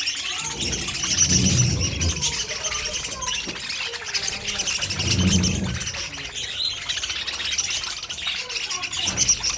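Many budgerigars chirping and chattering continuously in a dense, overlapping warble, with two brief low rumbles about a second and five seconds in.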